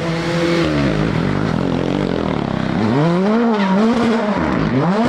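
Rally car engine at high revs. Its note holds for about a second, drops away, then from about three seconds in climbs and dips over and over as the car accelerates and the driver shifts and lifts.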